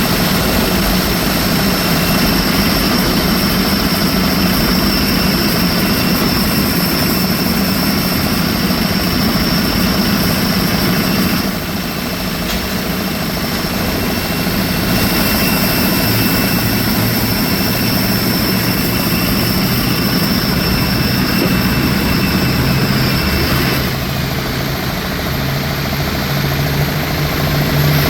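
Jet aircraft turbine noise on an airport apron: a loud, steady rumble with a high whine. The whine drops away about 24 seconds in, while a low engine drone grows stronger.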